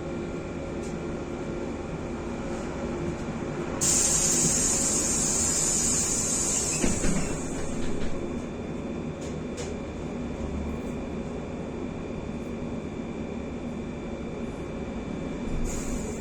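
Inside a BKM-43300D trolleybus: steady running noise of the vehicle, with a loud burst of compressed-air hiss about four seconds in that lasts some three seconds, and another brief hiss near the end.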